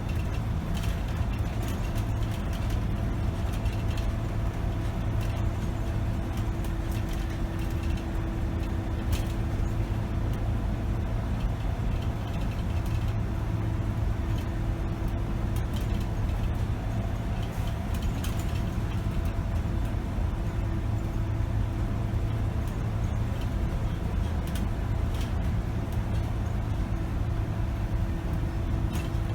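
A 2008 Scania K270 bus's five-cylinder diesel engine running steadily while the bus drives, heard from the driver's position. A constant low drone with a steady tone above it, with scattered short clicks and rattles from the bus body.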